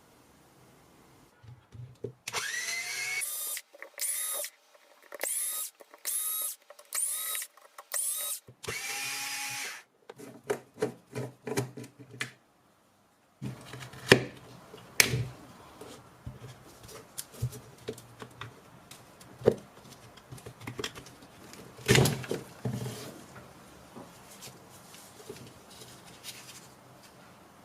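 Milwaukee cordless electric screwdriver's motor triggered in several short bursts, each spinning up in pitch, then one longer run. After that come scattered clicks and knocks of the tool being handled.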